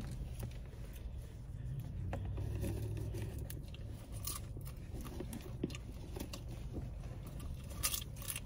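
Someone chewing and crunching popcorn, with scattered small crackles over a low steady rumble.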